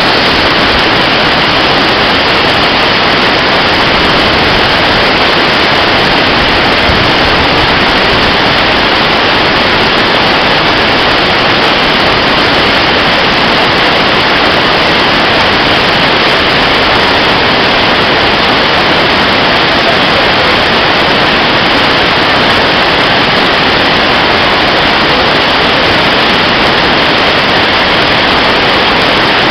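Water rushing steadily: a loud, even hiss that does not change.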